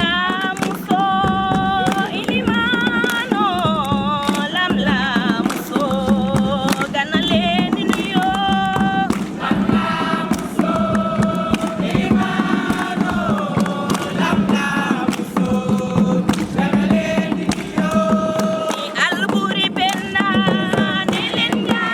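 A group of voices singing and chanting a song together, with sharp percussive strikes in the accompaniment.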